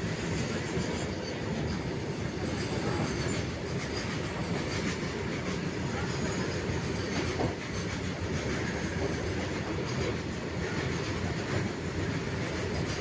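Train running on the rails: a steady, even rumble with faint clicks, no horn.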